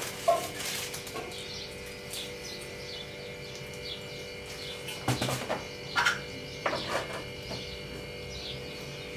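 Small birds chirping repeatedly in the background, with a few clicks and knocks about five to seven seconds in as a plastic sugar jar is handled and set down.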